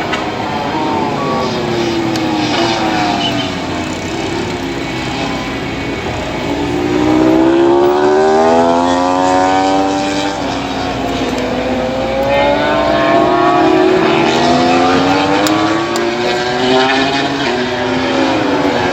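MotoGP racing motorcycles on track, their four-cylinder engines running at high revs. Several bikes are heard at once, their engine notes rising as they accelerate and falling away as they pass. The loudest pass comes about a third of the way in.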